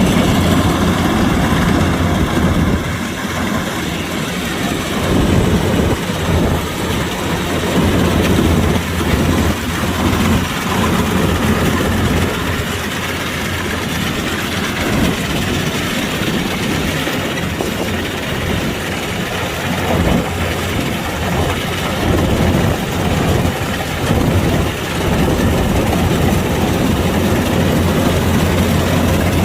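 Kubota DC-105X combine harvester running steadily: a loud, continuous diesel engine and machinery drone with a strong low hum, its level rising and falling slightly.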